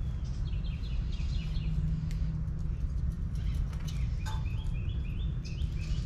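Small birds chirping in quick runs of short high notes, one run near the start and another from about four seconds in, over a steady low rumble.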